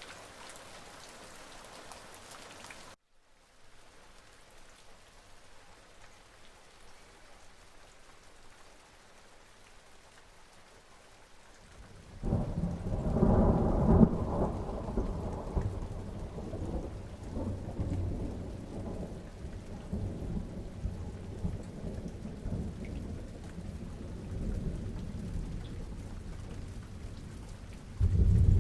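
Steady rain that cuts off abruptly about three seconds in and comes back softer. About twelve seconds in a long peal of thunder breaks and rumbles on under the rain, with another loud clap near the end.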